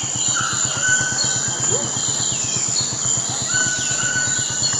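Outdoor ambience: bird calls, including repeated falling whistles and two held whistled notes, over a steady high-pitched insect drone and a low, even pulsing like an idling motor.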